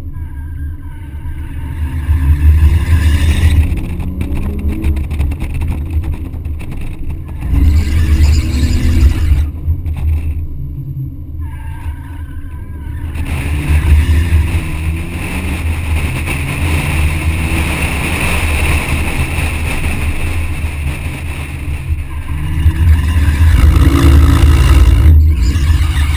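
BMW 130i's 3.0-litre straight-six revving up and down repeatedly as the car drifts, with tyres squealing through the middle stretch. Heavy wind buffets the outside-mounted microphone.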